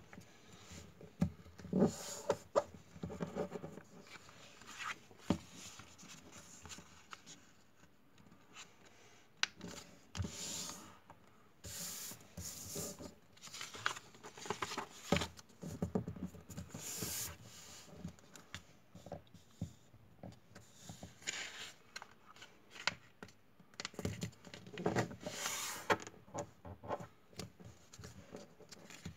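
Hands working craft materials for a homemade toy plane: irregular rubbing, scraping and tearing, with scattered short taps and clicks.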